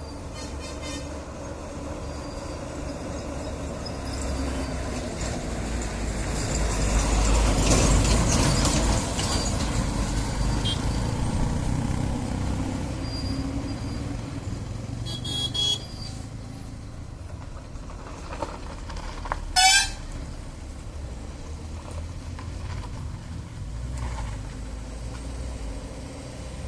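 Heavy vehicle traffic: truck engine and road noise swelling as a vehicle passes close about eight seconds in. A short horn toot comes a little past halfway, then a louder, brief horn blast about three-quarters of the way through.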